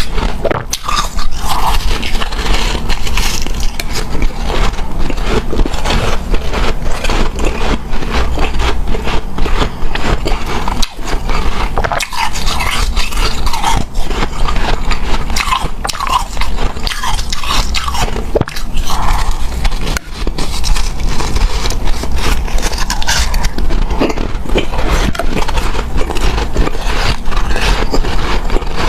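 Biting and chewing hard, snow-like powdered ice: continuous dense crunching with occasional soft squeaks.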